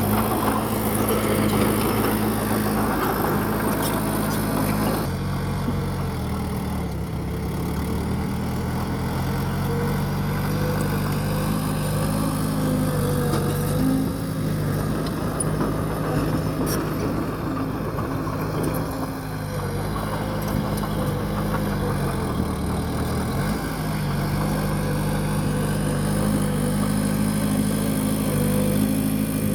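Bulldozer's diesel engine running steadily. Its pitch drops about five seconds in, then sags and comes back up about twenty-three seconds in.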